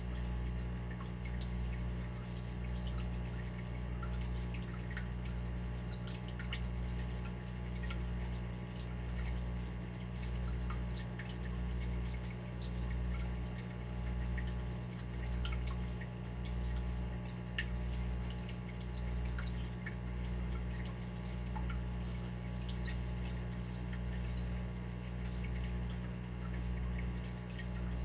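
Water dripping and trickling: scattered small droplet ticks over a steady low hum that swells and fades about once a second.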